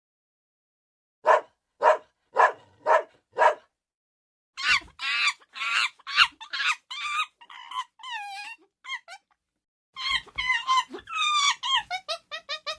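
Dog barking five times in an even row, then a string of high, wavering whines and yelps.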